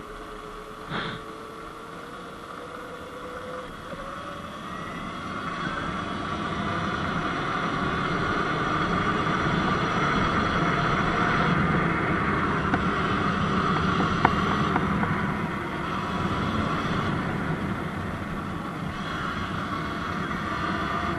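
Sur-Ron Light Bee X electric dirt bike riding, its motor whine rising in pitch as it speeds up, while wind and tyre noise grow louder. A brief knock sounds about a second in.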